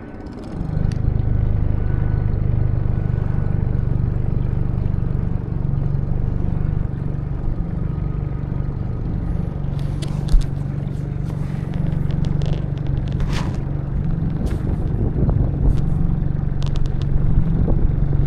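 Tohatsu outboard motor picks up revs about half a second in, then runs steadily at a constant low drone. Several short sharp clicks and knocks come through in the second half.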